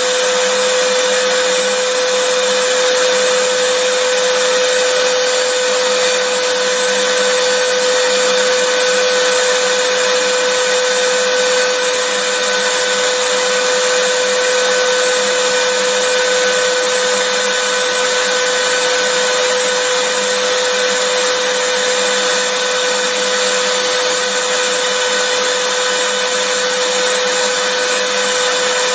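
Vacuum cleaner motor running continuously: a steady, unchanging rush of air with a constant hum near 500 Hz, used as white noise.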